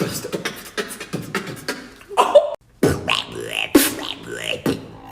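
Vocal beatboxing: a fast run of sharp mouth-made drum hits, then, after a brief break, pitched vocal sweeps and hums mixed with more hits.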